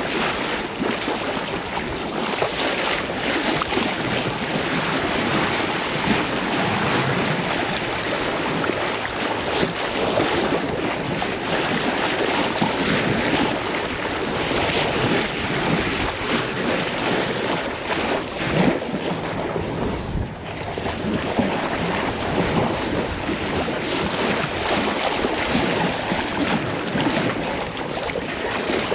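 Wind buffeting the microphone over the steady rush of sea water and waves around a sailing boat under way at sea.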